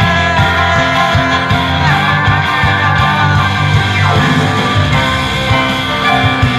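Rock music with guitar over bass and a steady drum beat, in a passage between sung lines.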